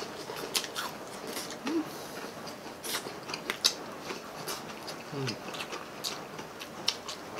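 Close-up chewing and biting of crispy pata and fried chicken drumsticks eaten by hand: scattered crisp crunches and wet mouth clicks.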